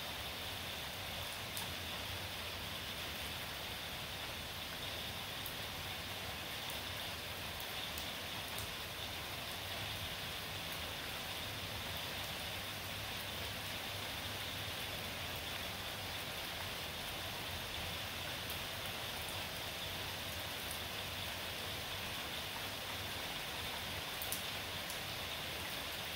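Steady rain shower, an even hiss of drops falling, with a few faint sharp ticks of drops landing close by.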